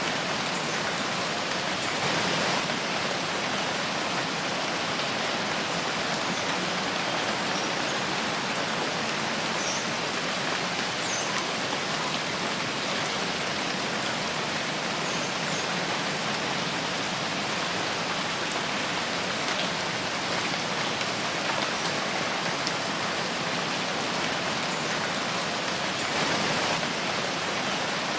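Steady rain falling through a forest, a dense even hiss of drops with a few faint individual drips.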